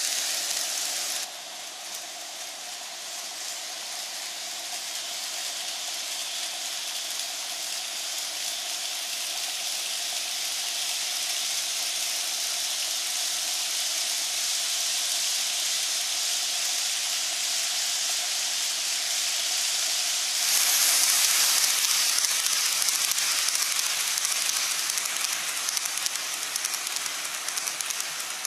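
N-gauge model train running on its track: a steady hissing rolling noise with a faint motor whine. It grows slowly louder, jumps louder about twenty seconds in as the train comes closest, then turns rougher and fades a little toward the end.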